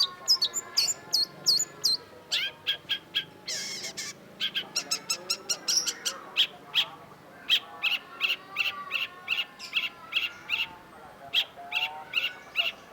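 Long-tailed shrike (cendet) singing a fast stream of short, sharp chattering notes. Quick downward whistles come near the start, and there is a brief harsh rasp a few seconds in.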